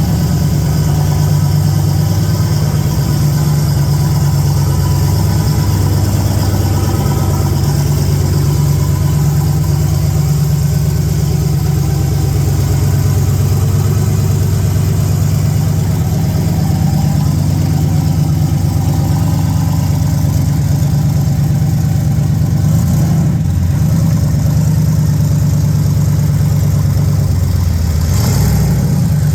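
Car engine idling steadily, shortly after a fresh start, with a slight wavering of its pitch late on.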